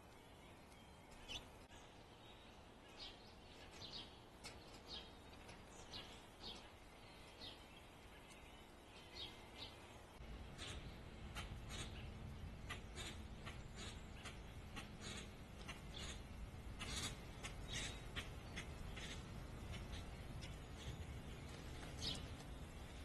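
Backyard birds giving short, high chirps again and again. About halfway through the chirps come faster, over a steady low background rumble.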